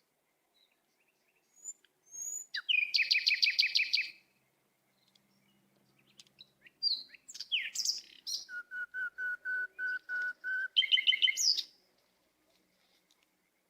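Songbird singing: a fast trill of rapid repeated notes, then quick chirps and sweeping whistles, a run of about ten even whistled notes, and a short trill near the end.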